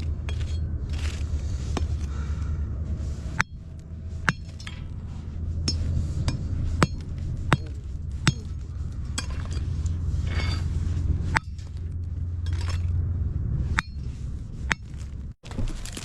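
Lumps of hard coal being struck and handled, giving sharp irregular knocks and clinks, about one every second or so, over a steady low rumble.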